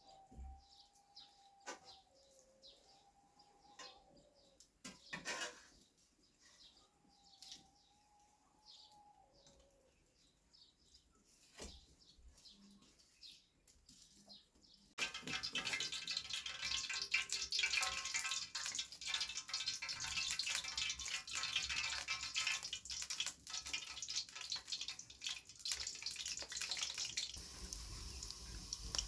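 Faint bird calls and a few small clicks, then about halfway through the sound switches abruptly to a loud, steady sizzle of food frying.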